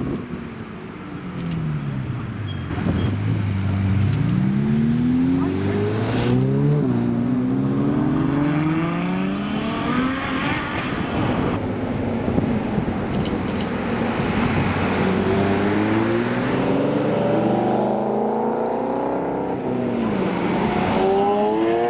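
Supercar engines revving and accelerating, the exhaust note climbing in pitch several times with drops in between.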